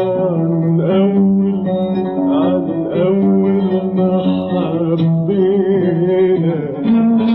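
Arabic music: an oud, a plucked lute, plays an ornamented melodic passage between sung lines.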